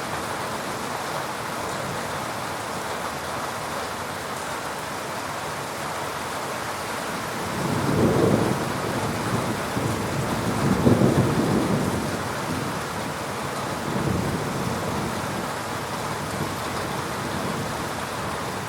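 Rain falling steadily, with thunder rumbling in low rolling swells: one a little before halfway, a louder one just after halfway, and a fainter one later.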